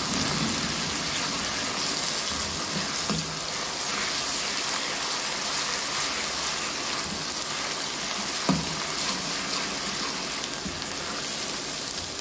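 Onions and ginger-garlic paste sizzling steadily in hot oil in a kadhai, with a single knock about eight seconds in.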